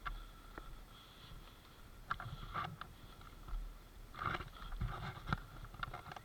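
Irregular clicking and rustling with low thumps, the busiest stretch about four to five seconds in, like a person moving on foot with gear.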